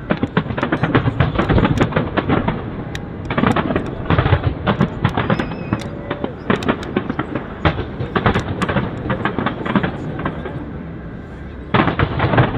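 Fireworks going off in rapid volleys of bangs and crackles, with a short lull near the end before another loud burst.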